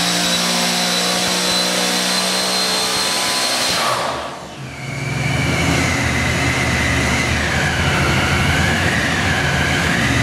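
Supercharged 548 big-block Chevy marine engine with a ProCharger centrifugal supercharger, held at steady high rpm with a high supercharger whine. About four seconds in the throttle is closed and the sound drops sharply. It then runs on at lower speed, the supercharger whine lower and wavering in pitch.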